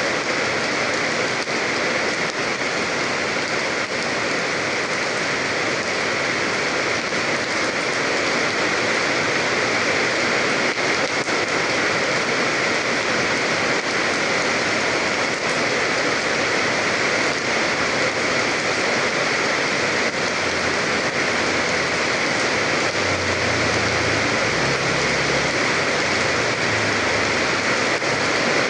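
Steady rain falling on a surface, an even unbroken patter with no change in strength, and a faint low rumble in the last few seconds.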